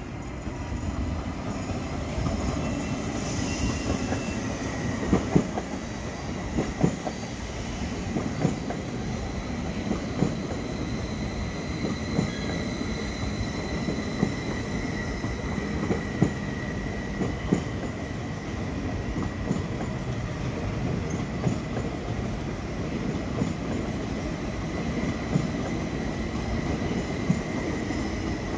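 BRB regional train rolling slowly past, a steady rumble of wheels on rail with irregular sharp clicks over the rail joints. A thin, steady high wheel squeal runs over it, stronger in the middle and again near the end.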